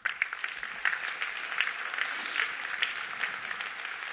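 An audience applauding: many hands clapping together, starting suddenly and then fading slightly.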